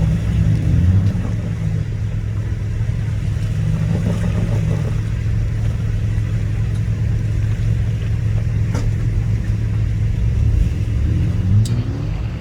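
Engine of a built off-road rock crawler running at low revs under light throttle, rising in pitch briefly twice as it is worked over rocks. A couple of sharp clicks sound about two-thirds of the way through and near the end.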